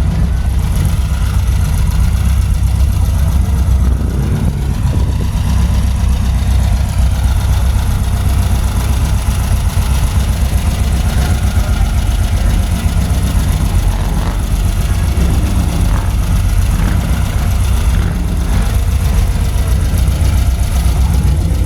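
Car engines idling, a steady low rumble with no change in level.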